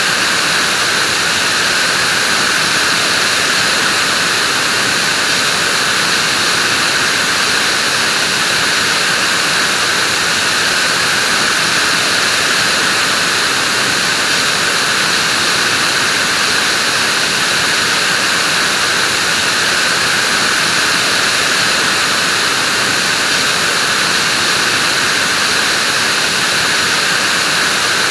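Vacuum cleaner running steadily: a continuous even whooshing hum of its motor and airflow, with no change in pitch or level.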